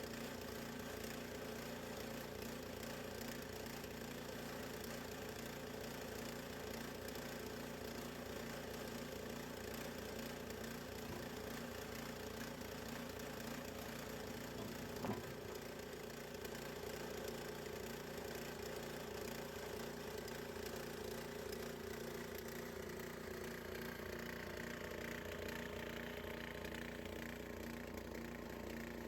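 Small gas engine of a bandsaw sawmill running steadily, with one sharp click about halfway through.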